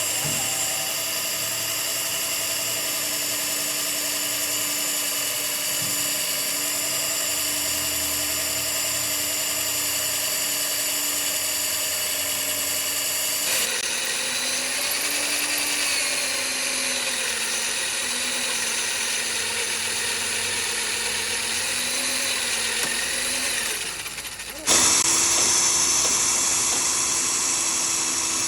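Electric power tool running steadily with a whine, its pitch wavering slightly. The sound changes abruptly twice, about halfway through and near the end, where the pitch steps down and then back up.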